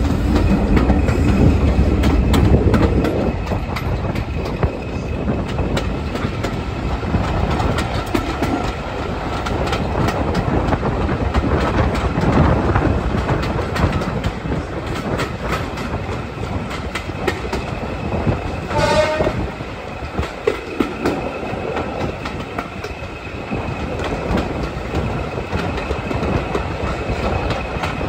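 Passenger train hauled by a Class 58 diesel-electric locomotive running along the line, heard from an open coach window: wheels clattering over the rails over a steady rush of noise, loudest in the first few seconds. A brief high pitched tone sounds about two-thirds of the way through.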